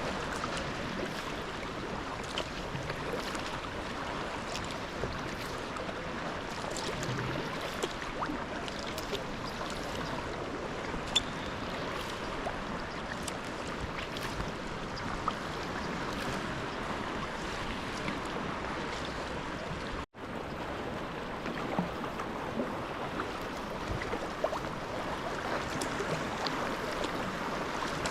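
Sea kayak being paddled: a steady wash of water with small splashes and drips from the paddle strokes. The sound drops out completely for an instant about twenty seconds in.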